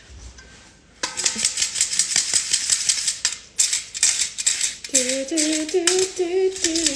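Icing sugar being shaken through a sieve, a fast, steady rattle that starts about a second in. About five seconds in, a woman hums a tune over it.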